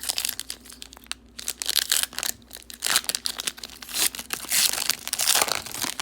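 Plastic trading-card pack wrapper being torn open and crinkled by hand: irregular crackling with sharp snaps, in surges.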